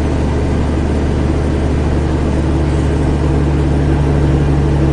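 The CAT C13 diesel engine of a Kenworth W900B dump truck running steadily with a deep, even drone.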